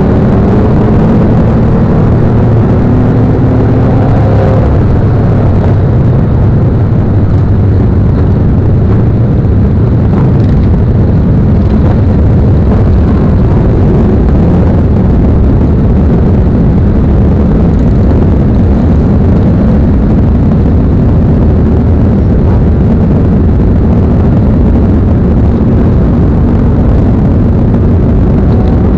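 Motorcycle running on the move, a dense, steady low rumble with engine tones gliding up and down in pitch over the first few seconds.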